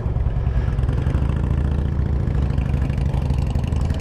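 Harley-Davidson Road Glide's V-twin engine running steadily at low speed while the bike rides over gravel, with noise from the tyres and wind.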